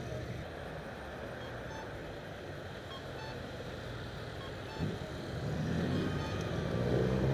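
Motorcycle engines running, with one growing louder and rising in pitch from about halfway through as it comes closer.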